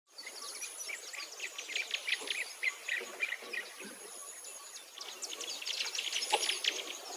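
Birds chirping and singing in a dense run of quick, high calls, with a thin, steady high tone that comes and goes.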